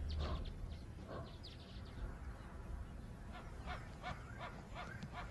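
Birds chirping in short, scattered calls over a faint natural background.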